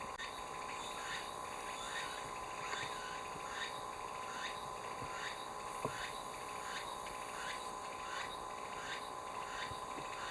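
Outdoor chorus of animal calls, likely frogs or insects: short calls repeating a little faster than once a second over a steady high-pitched drone.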